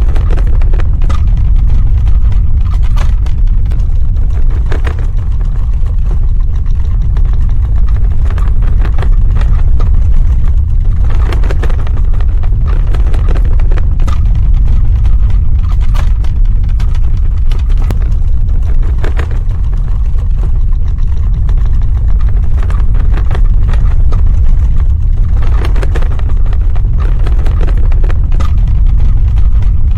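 Earthquake sound effect: a loud, continuous deep rumble with crackling and rattling over it, thickening in a few spells.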